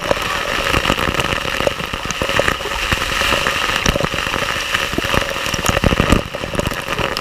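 Waterfall: water falling and splashing in a steady rush, dotted with many small sharp splashes.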